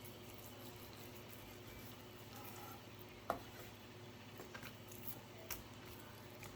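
Faint kitchen handling noises over a steady low hum: one sharp click about three seconds in, then a few lighter clicks and taps.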